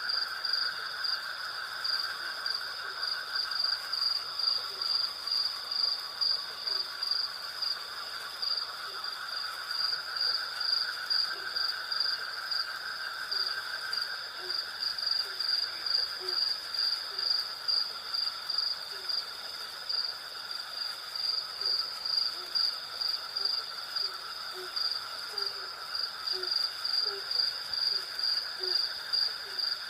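Night insect chorus of crickets chirping in a steady pulsing rhythm over a continuous insect drone. A short, low call repeats every second or so from about halfway through.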